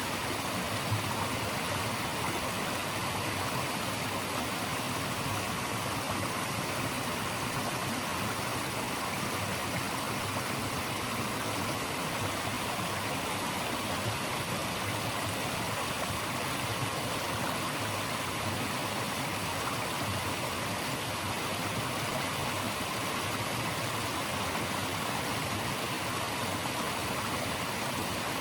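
Steady rushing of a stream's flowing water, a dense even hiss with no breaks or single events.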